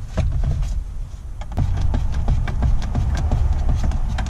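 Small scattered clicks and scrapes of a screw being backed out of a plastic dashboard trim panel, over a steady low rumble.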